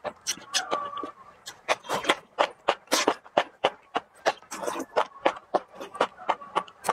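Close-up mouth sounds of eating a spicy chili dish: wet chewing and lip-smacking, in a quick run of sharp clicks about three a second.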